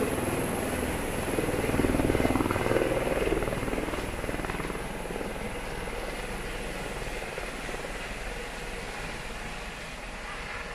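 Helicopter running, its rotor and engine noise loudest in the first few seconds and then fading gradually.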